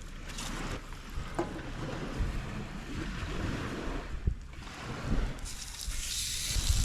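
Wind gusting over the microphone, with rumbling buffets and a few small knocks. About five and a half seconds in, a steady high hiss comes in.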